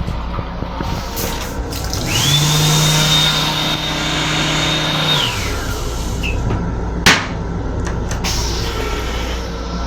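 An electric motor in an M7 railcar restroom spins up with a quick rising whine, runs steadily for about three seconds and winds down, over the rumble of the moving train. A single sharp knock follows a couple of seconds later.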